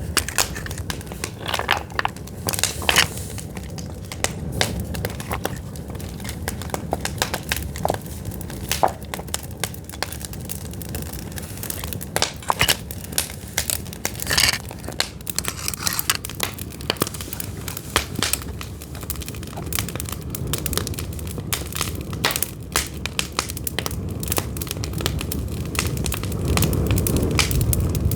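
Pine firewood burning, crackling with irregular sharp pops over a steady low rumble, which grows louder near the end.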